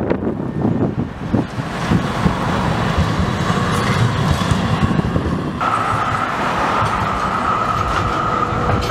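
Electric tram running on street track: a steady low rumble of wheels on rail with scattered knocks. About halfway through, a steady high-pitched whine starts suddenly and holds.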